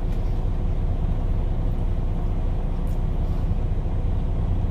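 Semi truck's diesel engine idling: a steady low hum.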